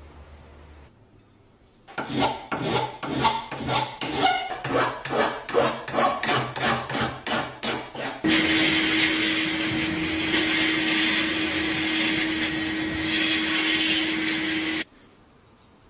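Hand filing or sanding, about three rasping strokes a second, then a steady whir with a single hum that cuts off suddenly: rust being worked off the parts of an old hand-cranked grinder.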